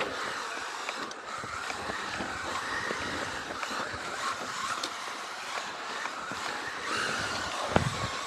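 Tamiya XV-01 electric RC rally car driving on pavement: motor and gear whine rising and falling with the throttle over tyre noise, with a few sharp ticks.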